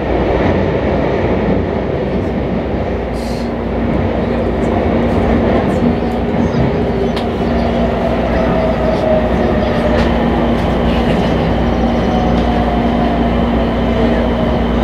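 Keisei Skyliner train heard from inside the carriage as it runs through a tunnel into Narita Airport Terminal 2 station: a steady, loud rumble of wheels and running gear, with a steady hum joining about two seconds in. A falling motor whine comes twice, typical of a train slowing to arrive.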